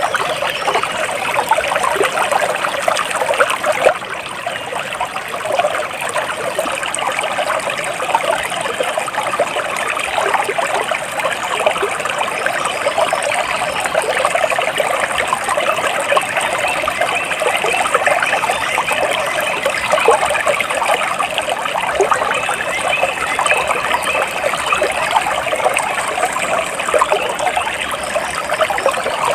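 Water flowing and trickling in a steady, continuous babble, like a small stream.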